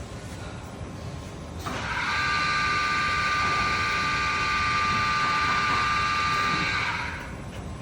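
Filter-production machinery running on a factory floor: a steady, high whine of several tones starts about two seconds in, holds for about five seconds, then stops, over constant machine noise.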